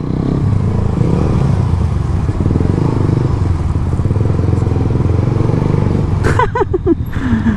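Motorcycle engine with an aftermarket exhaust running steadily while riding. A brief voice cuts in about six seconds in.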